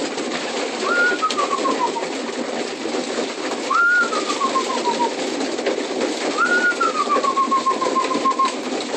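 A loft of racing pigeons cooing in a dense, steady murmur. Over it comes a high squeaky call, repeated about every two seconds and four times in all, each one rising sharply and then sliding slowly down in pitch.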